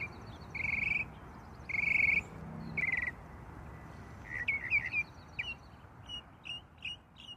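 Birds singing: a buzzy, trilled note repeated about four times, followed by a quick run of short high chirps, over a steady background noise.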